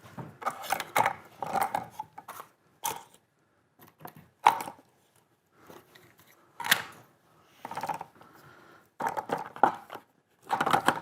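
Irregular handling noises of small tools and parts being picked up, moved and set down on a workbench: rustles and knocks with several sharp clacks among them.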